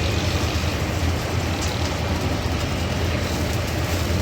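Steady street background noise: an even low rumble with a hiss over it.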